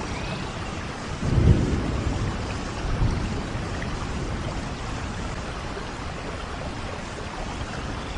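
Steady rain falling, with a low rumble of thunder swelling about a second in and a smaller one around three seconds in.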